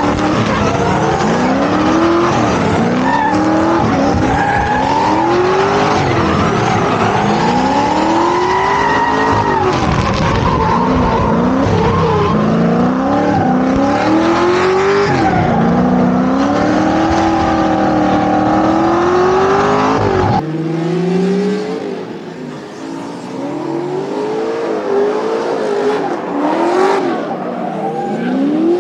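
Drift car engines revving hard in repeated rising sweeps, pitch climbing and dropping again and again, with tyre squeal under them. About two-thirds of the way through, the sound cuts abruptly to another take of the same revving.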